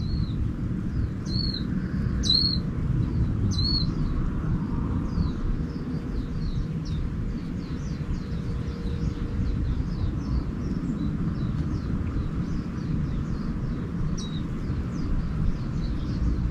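Wild birds calling: a few short, clear chirps in the first four seconds, then faint rapid twittering, with one more clear chirp near the end. A steady low rumble runs underneath throughout.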